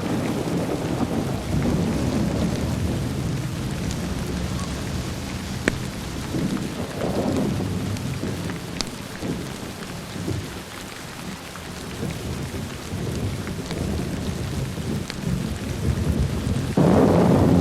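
Steady rain with rolling thunder: a low rumble that eases off around the middle, then a fresh, louder thunder peal breaking in suddenly near the end. A few isolated sharp crackles from a fireplace stand out over the rain.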